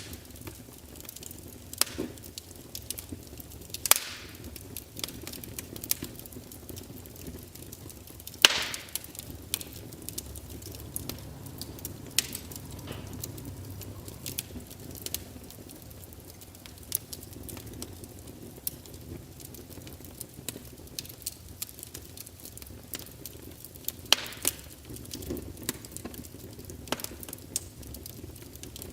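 Wood fire crackling, with irregular small pops and snaps and a few louder cracks, one about four seconds in, one about eight and a half seconds in and one near the end.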